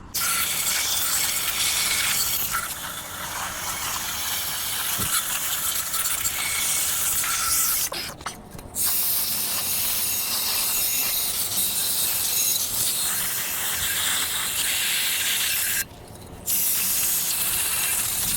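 Pressurised spray hissing steadily, stopping briefly twice: once about eight seconds in and again near the end.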